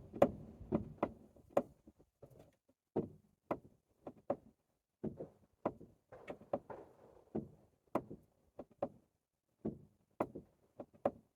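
Irregular sharp knocks and clicks, about two a second, from a car's front suspension strut as the steering wheel is turned. The owner suspects something catching between the plastic dust boot and the newly replaced strut top mount.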